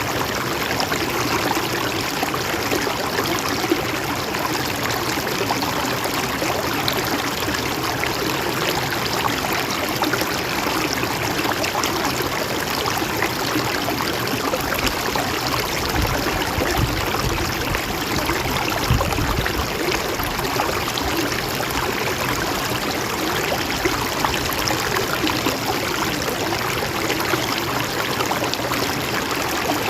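Mountain stream flowing steadily as an even rush of water, with a brief low rumble a little past halfway.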